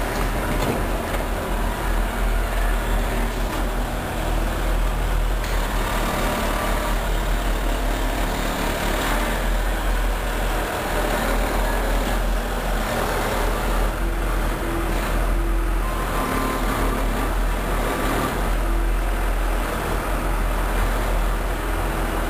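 Diesel-hauled train running past, a steady loud noise with the low drone of its locomotive engines and faint steady tones above.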